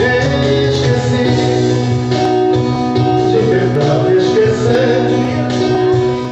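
Music with plucked guitar playing.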